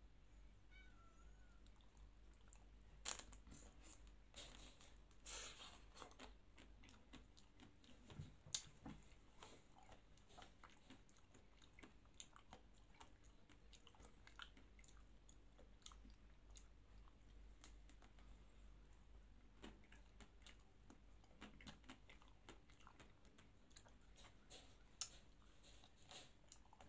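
Faint close-up chewing and biting of a chocolate-coated Magnum ice cream bar dipped in Nutella, with short crisp cracks of the chocolate shell, the loudest about three and eight seconds in. A faint cat meows near the start.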